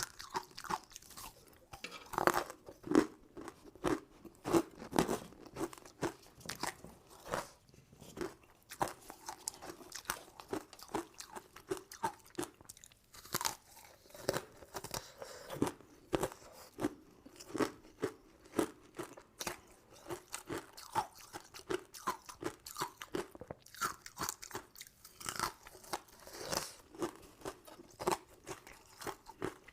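Close-miked chewing and crunching of sugary candy sweets: a continuous run of irregular crisp crackles, with a few louder bites.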